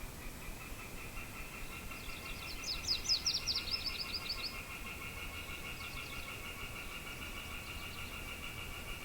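Morning birdsong in open country: a quick run of sweeping high notes about two seconds in, lasting around two seconds. Under it, a steady high pulsing trill continues, over a soft background of wind.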